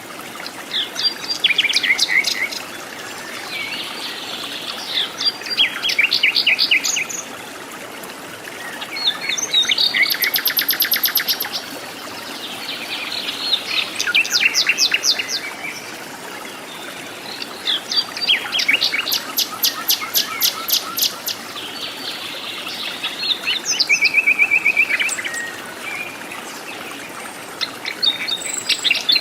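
Wild bird song in a tropical forest: a phrase of rapid, high trilled notes repeated every four to five seconds, with softer chattering calls between phrases.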